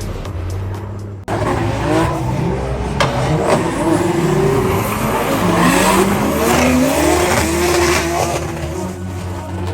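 Music cuts off sharply about a second in. Then a drift car's engine revs up and down, with tyres squealing as it slides.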